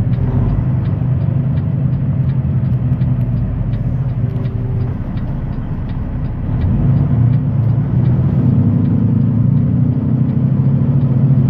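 Semi-truck diesel engine running steadily while driving, heard from inside the cab, getting louder about two-thirds of the way through. A faint ticking about twice a second runs under it.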